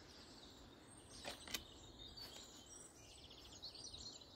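Near silence outdoors with faint birdsong: short high chirps come and go. Two faint clicks fall close together about a second and a half in.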